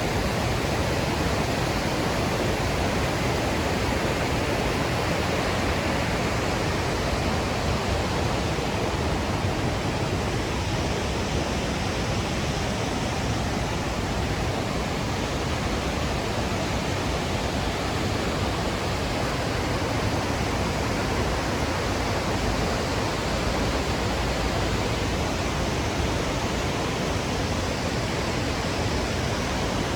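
Steady rush of falling water from the Låtefossen twin waterfall, an even noise with no breaks or changes.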